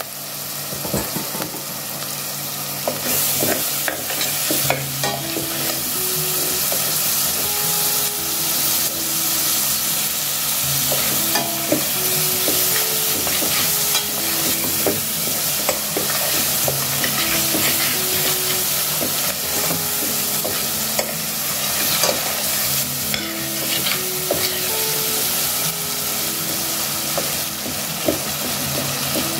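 Spices, tomato and herbs sizzling in hot oil in a steel pot while a metal spoon stirs them, with frequent small scrapes and clicks of the spoon against the pot. The sizzle grows a little louder a few seconds in.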